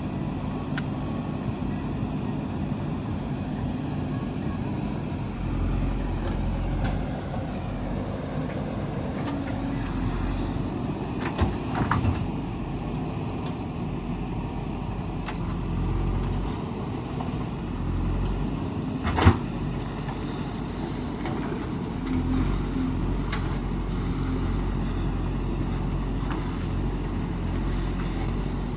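JCB 3DX backhoe loader's diesel engine running under working load, swelling and easing every few seconds, with a few sharp knocks, the loudest about two-thirds of the way through.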